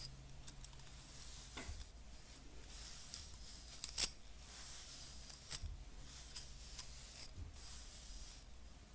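Hairbrush bristles rubbing and scratching close up: a soft, steady high-pitched hiss with scattered clicks, the sharpest about four seconds in.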